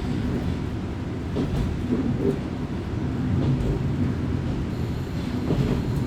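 Kominato Railway diesel railcar heard from inside while running: a steady low rumble of engine and wheels on the track, with a few faint clicks.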